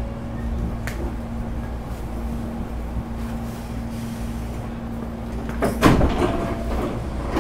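Hankyu 8300 series electric train standing at a station, its air conditioning and onboard equipment giving a steady hum. About six seconds in, the passenger doors slide shut with a brief loud thud, ahead of departure.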